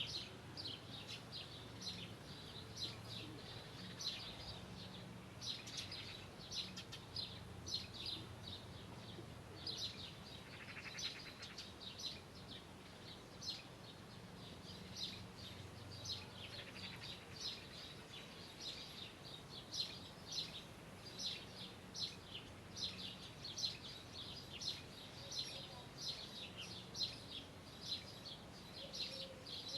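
Small birds chirping continuously, quick short high chirps several times a second, over a faint low background hum.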